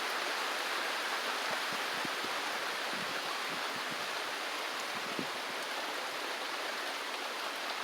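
Rain falling steadily, a continuous even hiss with a few faint patters.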